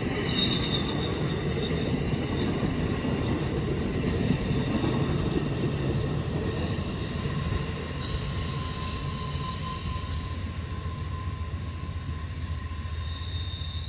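Amtrak passenger train rolling past: a steady rumble of wheels on rail with thin, high squeals from the wheels, easing slightly toward the end.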